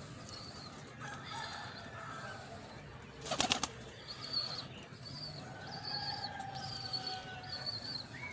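Pigeons, with a short burst of wing flapping about three seconds in, followed by faint, short high-pitched chirps repeating through the second half.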